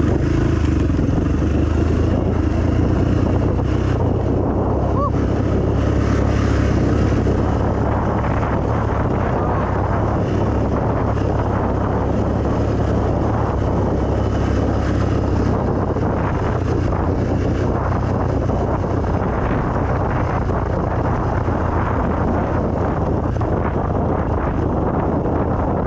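Dirt bike engine running steadily while riding, with wind buffeting the microphone.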